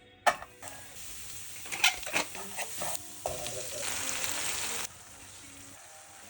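Food frying in oil in a pan, with a few knocks of a utensil early on; the sizzling grows loud for about a second and a half, then cuts off suddenly.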